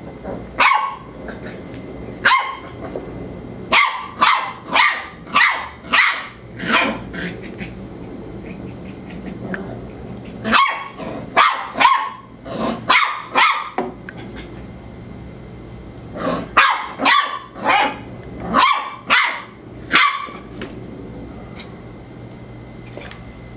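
A female dog barking in volleys of several sharp barks about half a second apart, with pauses of a few seconds between volleys, as she squares off against a cat.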